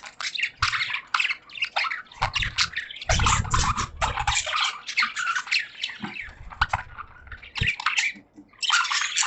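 Budgerigars chattering in a cage, a dense, unbroken stream of short high chirps and squawks, with a low rumble coming and going underneath.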